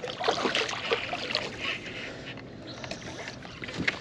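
Water splashing and sloshing at the side of a small fishing boat, with irregular light knocks, as a hooked striped bass is brought in close.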